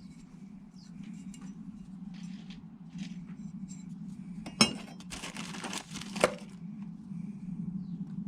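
Metal tools and parts clinking and knocking during work on a car's engine bay, with light clicks throughout, two sharp metal knocks about halfway through and a rough scraping stretch between them, over a steady low hum.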